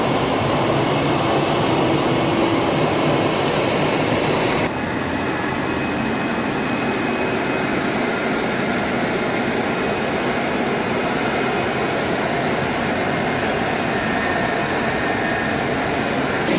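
Steady noise of jet aircraft engines running, with an abrupt change at an edit about five seconds in, after which it is slightly quieter and duller.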